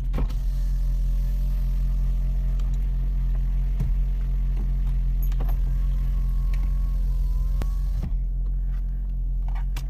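Car engine idling, heard from inside the cabin as a steady low hum, with a few short clicks and knocks of movement in the seat.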